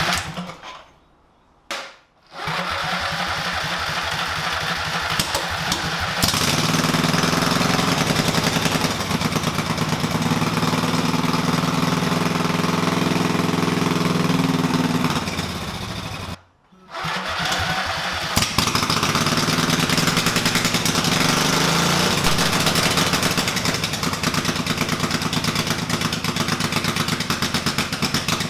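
Home-made motorcycle's Vanguard engine running with no muffler, its exhaust cut off, with a steady rapid pulse of firing strokes. It breaks off briefly about a second in and again about sixteen seconds in. It runs faster and louder from about six to fifteen seconds in and again from about eighteen seconds on.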